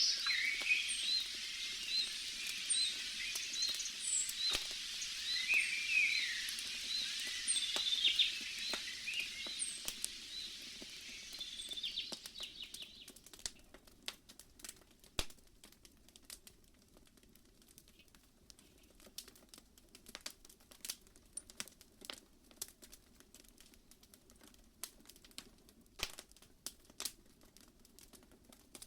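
Campfire crackling with sparse sharp pops. For roughly the first half a bird chirps repeatedly over a high hiss of forest ambience, which fades out, leaving the crackling on its own.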